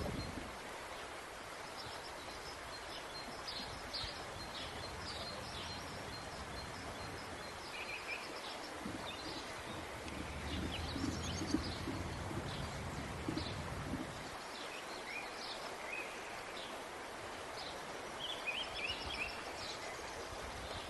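Small birds chirping and singing repeatedly over a steady outdoor background hiss, with a low rumble for several seconds midway.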